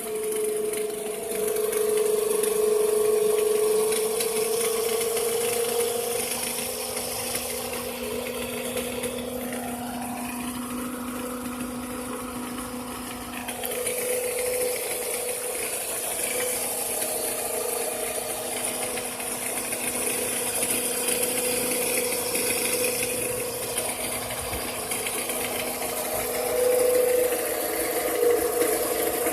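2006 Toyota Camry engine running just after startup with a steady whining tone over it, the unexplained noise its owner is showing at 220,000 miles. About ten seconds in, a higher tone rises and then falls away.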